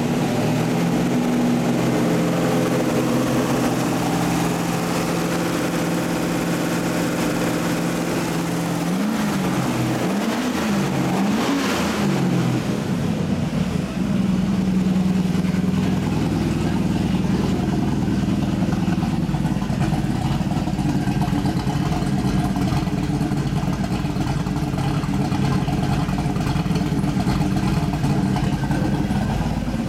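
Twin-turbo 427ci LS V8 (twin GT35R turbos) running on its first start-up, idling steadily. About nine seconds in the throttle is blipped three times in quick succession. It then settles into a steady, deeper idle.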